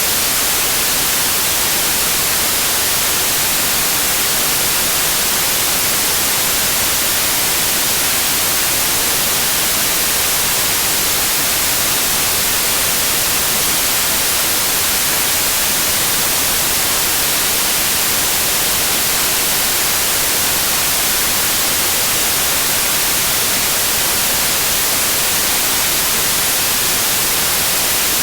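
Steady synthetic white noise: an even, unchanging hiss, brightest in the treble, with no other sound in it.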